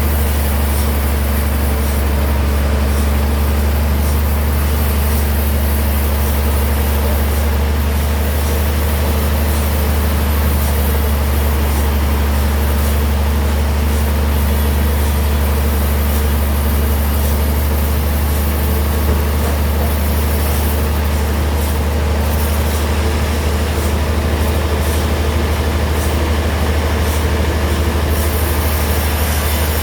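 Sawmill bandsaw running steadily, a constant loud low drone that does not change.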